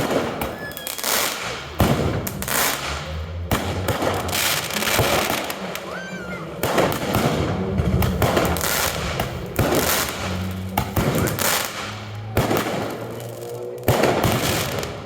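Fireworks display: aerial shells bang one after another amid continuous crackling, with a brief rising whistle about six seconds in.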